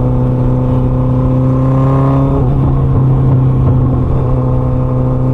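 Full-bolt-on 2012 Suzuki Hayabusa inline-four engine running under way at a steady cruise. Its note climbs slightly, then drops about two and a half seconds in and carries on evenly.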